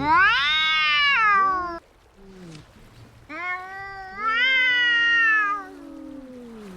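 Domestic cats yowling in a fight: one loud long yowl rises then falls and cuts off suddenly, and after a short pause a second long wavering yowl comes, overlapped by a lower, slowly falling moan from another cat.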